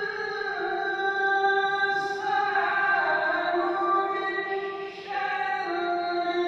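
Melodic Qur'an recitation in tilawah style: a reciter's voice holds long, ornamented notes that shift in pitch in steps, with a short break about five seconds in.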